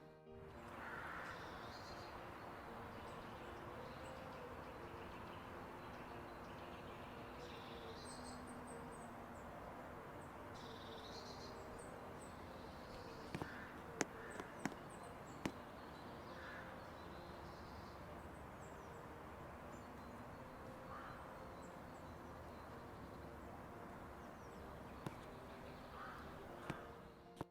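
Birds calling now and then over a steady outdoor background hum, with a few sharp clicks about halfway through.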